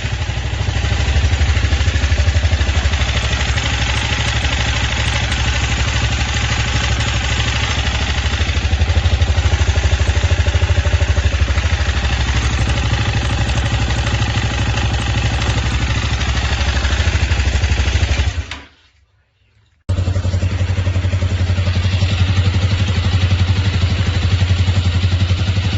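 164FMM single-cylinder four-stroke motorcycle engine running with a knock that a replacement piston has not cured; the owner traced the knock to a damaged crankshaft. A little under 19 seconds in the sound cuts out for about a second, then the engine is heard running again.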